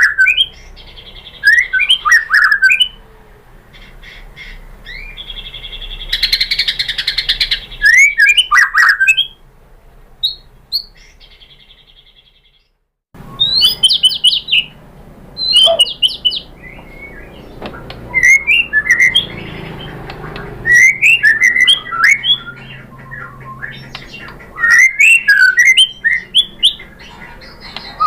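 White-rumped shama singing in short loud bursts of whistled notes and rapid chattering chips, with pauses between phrases. Partway through the song briefly breaks off completely.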